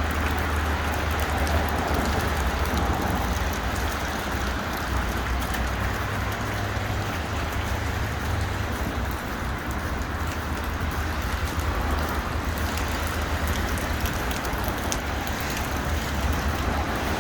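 Steady city street ambience: a continuous hiss over a low rumble of traffic, with faint scattered ticks.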